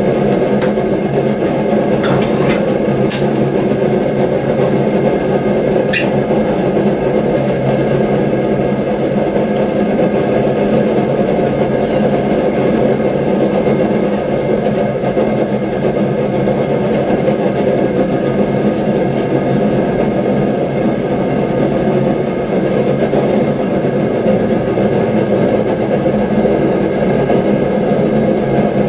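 Forge running steadily as the knife blade heats in it: a constant loud hum with a few faint clicks in the first dozen seconds.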